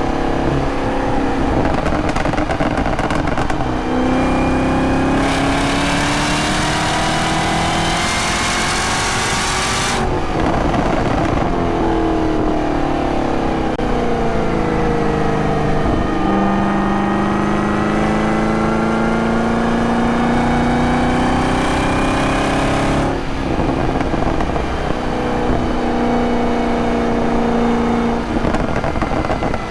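2023 Camaro ZL1's supercharged V8 being driven hard with a manual gearbox. The engine note climbs in pitch under acceleration, then changes sharply about ten seconds in and falls away. It climbs again until another sharp change about twenty-three seconds in, then runs steadier.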